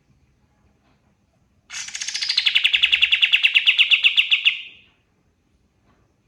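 Pied triller (kapas tembak) singing one rapid trill lasting about three seconds, about ten notes a second, dropping in pitch at the start and then running level before fading.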